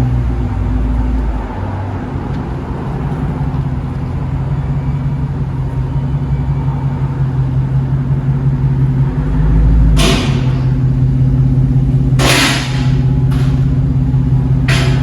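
Car engine running steadily with a low hum. Several short hissing bursts come in the last five seconds.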